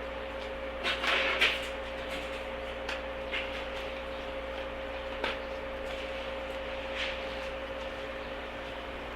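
Inside a JNR 103-series electric commuter motor car: a steady hum under a constant background, with a few short knocks and rattles, the loudest cluster about a second in.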